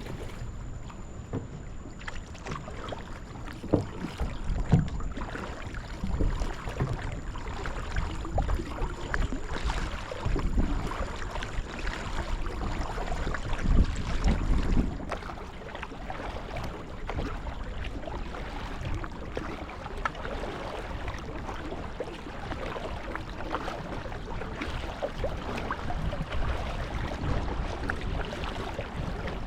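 Water splashing and lapping around a kayak as it is paddled, with irregular paddle splashes and low rumbling bursts that are loudest in the first half.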